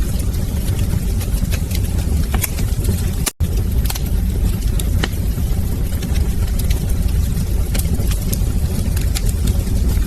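Wood fire in a fireplace crackling: a steady low rumble of the burning fire with sharp pops scattered irregularly throughout. The sound cuts out for an instant about three seconds in.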